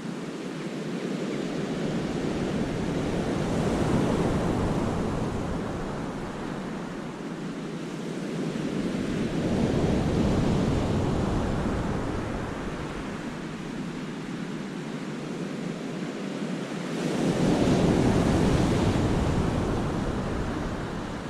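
Sea waves surging and breaking in a rocky cove, swelling and falling back three times, with a sudden, louder surge about seventeen seconds in, and wind buffeting the microphone.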